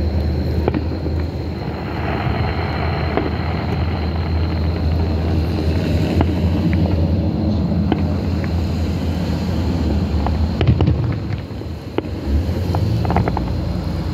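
Distant aerial fireworks going off: scattered sharp pops and crackles, several close together near the end, over a steady low rumble.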